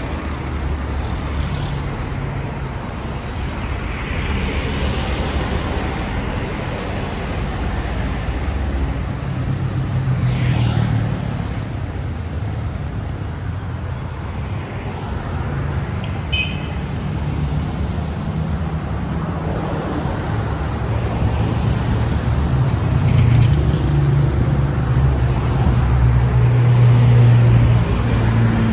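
City street traffic: engines running and cars passing by in several whooshes. A single short high chirp sounds about two-thirds in, and a heavier engine hum grows louder near the end.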